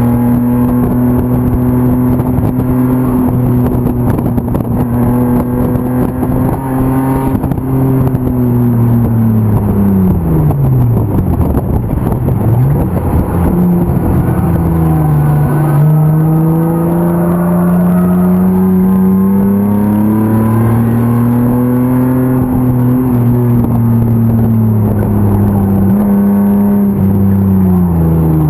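BMW M50 straight-six racing engine under load on track. It holds a high steady note, then falls steeply to a low note about ten seconds in as the car slows for a corner. It climbs again under throttle and holds, then dips once more near the end.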